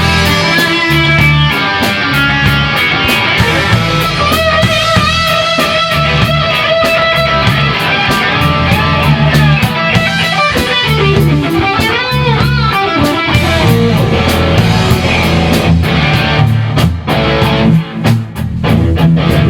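Rock band playing live in a rehearsal room: electric guitar over bass and a drum kit, with bent guitar notes about halfway through and hard accented hits near the end.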